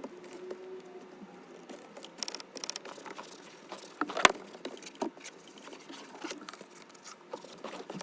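Scattered light clicks, taps and rubbing from things being handled, with one sharper knock about four seconds in.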